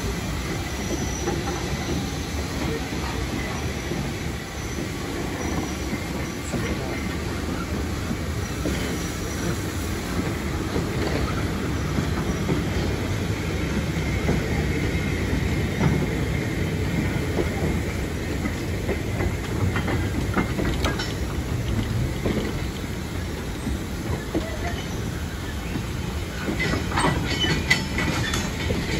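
Vintage goods wagons of a steam-hauled freight train rolling slowly past on the track: a steady rumble and clatter of wheels on rails. Bursts of sharper clicking and wheel squeal come about two-thirds of the way through and again near the end.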